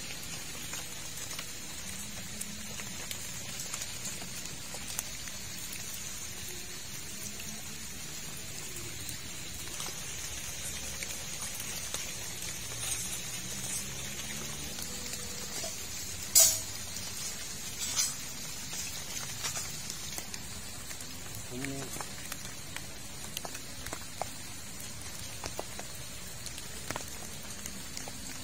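Steady rain falling: an even, fine hiss scattered with small drop taps. A little past halfway, two sharp, louder clicks come about a second and a half apart.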